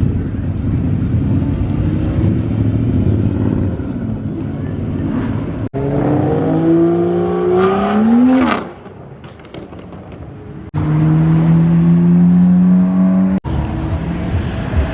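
Several short, edited clips of car engines passing at speed. About halfway through, one engine revs hard, its note climbing steeply in pitch, then suddenly drops off. Later another engine holds a steady high note, and near the end a further car runs.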